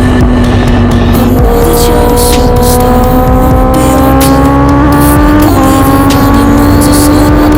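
Honda CBR650R's 649 cc inline-four engine and exhaust running under load while riding, its pitch climbing slowly, with brief breaks in the tone about a second and a half in and again near the middle.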